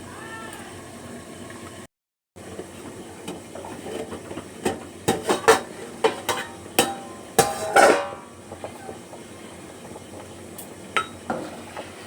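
Cooking utensils clinking and knocking against pots, a quick run of sharp clinks about halfway through and two more near the end, over a steady kitchen background.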